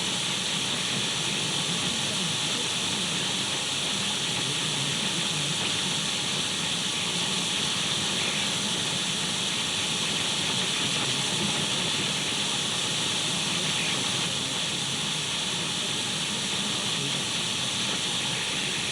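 Radio static from an untuned radio: a steady, even hiss, brightest in the treble, without change or break.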